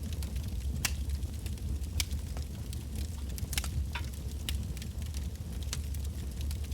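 Wood campfire burning, logs crackling and popping in irregular sharp snaps over a steady low rumble of the flames.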